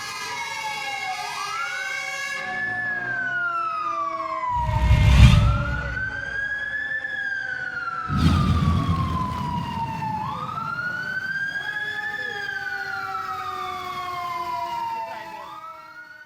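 Fire truck siren wailing, its pitch sweeping slowly up and down about every five seconds. Two loud low rumbles break in, about five and eight seconds in.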